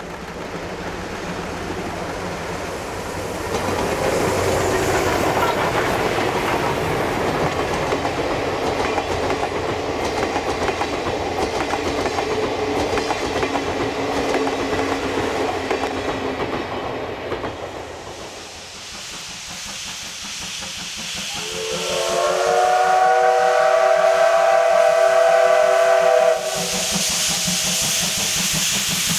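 Steam locomotive running by, its wheels clattering on the rails. About 21 seconds in, its steam whistle gives one long blast of about five seconds, sliding up to pitch as it starts and cutting off suddenly, followed by a hiss of steam.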